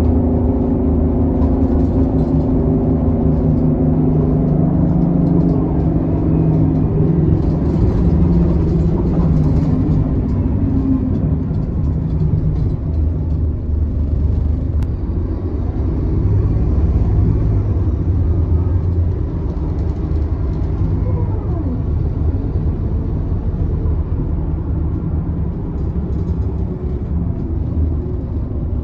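Scania K280UB bus's five-cylinder diesel engine running as the bus drives, its pitched engine note plain for about the first ten seconds, then giving way to a low, steady rumble of engine and road noise.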